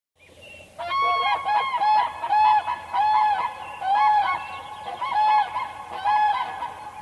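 Birds calling over and over, the calls starting about a second in and overlapping at roughly two a second, each call rising and falling slightly in pitch.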